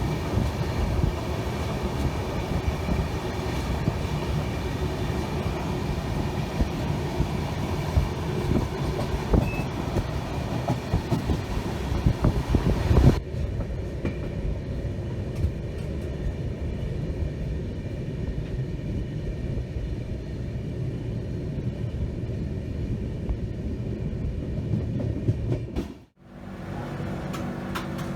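Passenger train running on the rails: a steady rumble with frequent sharp knocks for about the first half, then an abrupt change to a duller, smoother run. The sound drops out briefly near the end.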